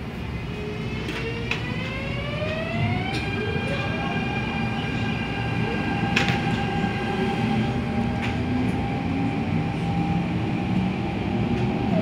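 MTR Tung Chung Line A-Train accelerating away from a station: its traction motors whine in several tones that rise in pitch for about three seconds and then hold steady, while a lower tone keeps climbing slowly. Running rumble grows steadily louder, with a few sharp clicks from the track.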